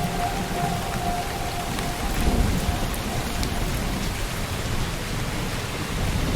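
Steady rainfall, with a low rumble of thunder swelling briefly about two seconds in.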